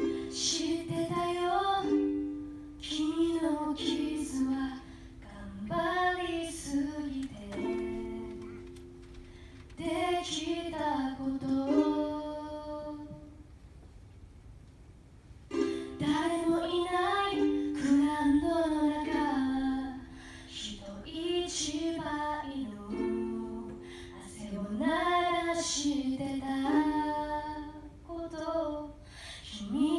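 A woman singing to her own ukulele accompaniment; the song starts at once, with a break of about two seconds midway.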